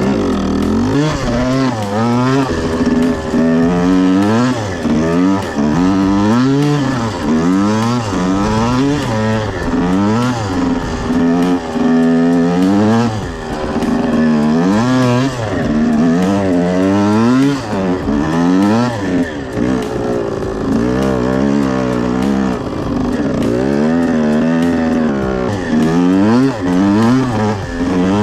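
1979 Yamaha IT175 two-stroke dirt bike engine being ridden hard, revving up and dropping back over and over, about every second or two, its pitch climbing and falling with each burst of throttle.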